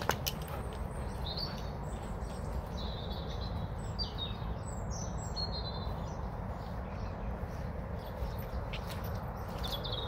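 A small songbird singing a run of short, high chirping phrases for several seconds, over a steady low background noise.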